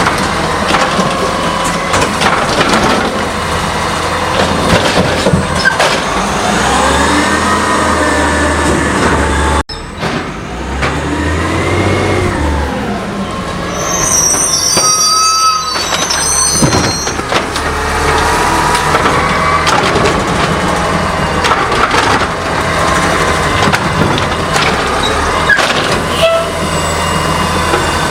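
A CNG-powered automated side-loader garbage truck running, its engine and hydraulics working, with whines that rise and fall. There is a sudden break in the sound about ten seconds in, and high squeals a few seconds later.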